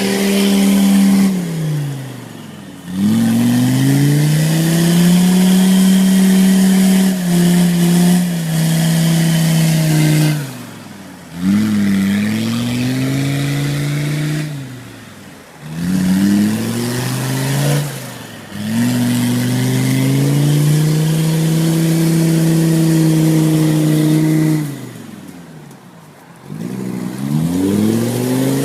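Mercedes 617 3.0 five-cylinder diesel in a UAZ off-roader, revved hard about six times. Each surge climbs in pitch, holds for a few seconds, then drops away before the next.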